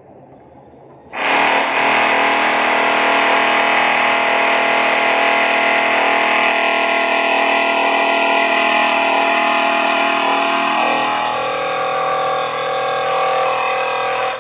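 Loud industrial machinery noise that starts suddenly about a second in: a steady, multi-toned mechanical drone with a distorted edge, one of its tones dropping in pitch near the end before it cuts off abruptly.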